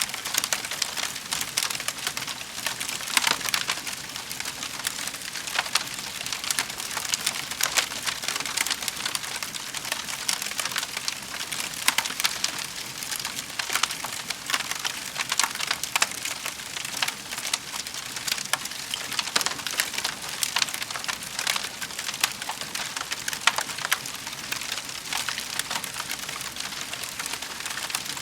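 Wood fire crackling in a fireplace: a dense stream of small snaps and hiss, with sharper pops here and there.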